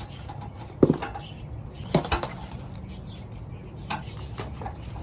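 Garden soil being dug and scooped by hand, with scattered scraping and crumbling and two sharp knocks, about one second and two seconds in.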